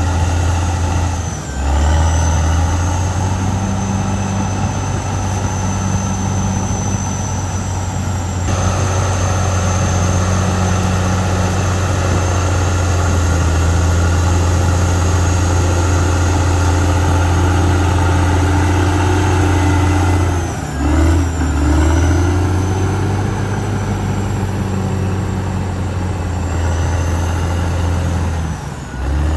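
Caterpillar D6R XL bulldozer's diesel engine running with a steady low drone. The engine note briefly dips and shifts about a second and a half in, again around twenty seconds in, and right at the end.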